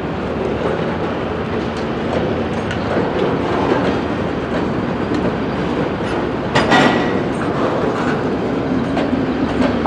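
Freight cars rolling through a rail yard, wheels clicking over rail joints and switches, with a loud metallic clank that rings briefly about six and a half seconds in.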